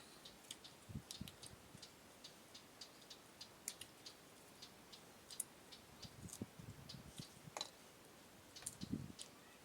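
Faint, close-up eating sounds: small irregular wet clicks of chewing and lip-smacking, several a second, with a few soft low thumps.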